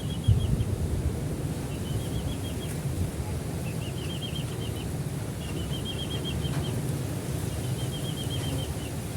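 A high, rapid trill of about eight quick notes, repeated every one and a half to two seconds, over a steady low rumble.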